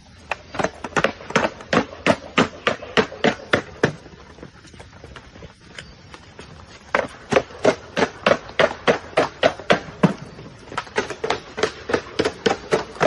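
Rapid, regular sharp taps or knocks, about four a second, in two runs with a pause between about four and seven seconds in.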